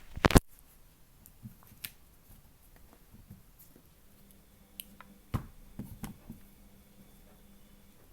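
Handling clicks and knocks from a hand-sculpted T-54 tank model. One sharp loud click comes just after the start, and a cluster of lighter clicks about five to six seconds in.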